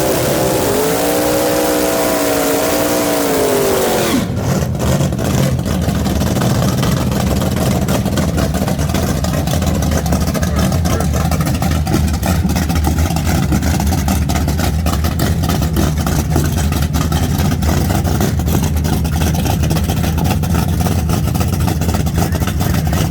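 Race car engine held at high revs, its pitch dropping as it lets off about four seconds in, then a steady low rumble.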